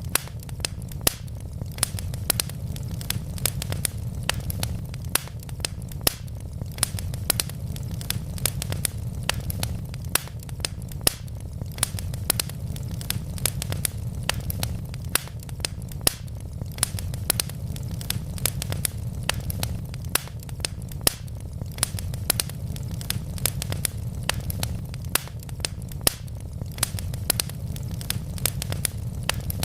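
Wood logs burning in a fireplace, crackling with many sharp pops, several a second, over a steady low rumble of the flames.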